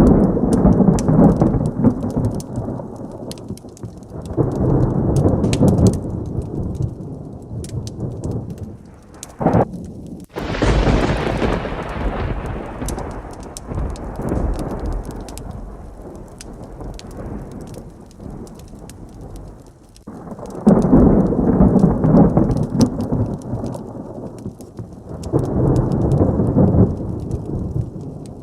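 Heavy rain with thunder: rolling rumbles near the start and twice in the last third, and a sharp, close thunderclap about ten seconds in that rumbles away over several seconds. Scattered sharp ticks run throughout.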